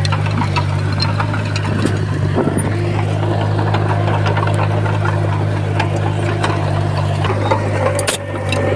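Komatsu bulldozer's diesel engine running steadily under load, with scattered metallic clanks and clicks from the tracks and blade. There is a brief sharp break near the end.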